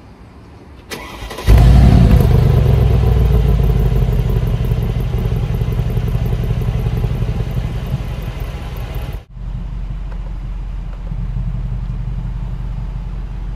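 2020 Mercedes-AMG G63's twin-turbo V8 being started: a short crank about a second in, then it catches loudly and settles into a fast idle that slowly comes down. About nine seconds in the sound breaks off for an instant, and the engine then idles steadily.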